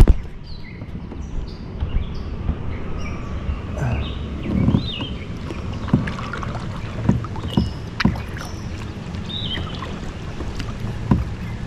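Kayak paddling in a Hurricane Osprey kayak: paddle strokes in the water with sharp knocks of the paddle against the hull every second or two, over steady wind rumble on the microphone.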